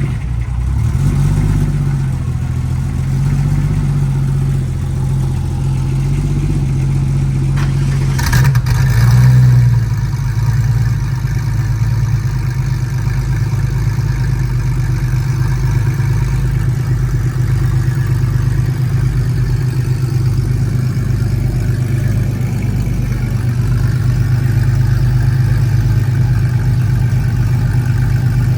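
Car engine idling just after being started, with a brief rise in revs about eight seconds in before it settles back to a steady idle.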